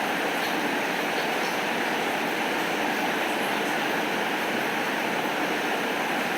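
Steady rain falling: an even, unbroken hiss with faint scattered drops on top and no thunder.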